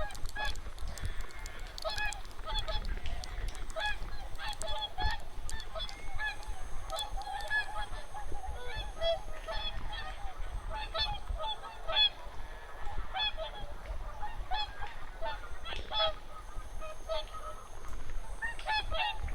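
A large flock of wild geese calling, many short honking calls overlapping continuously.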